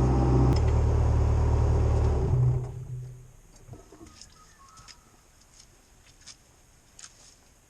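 Diesel engine of a Cat 304CR mini excavator running with a steady low hum, cutting out about two and a half seconds in. After it, faint short bird chirps.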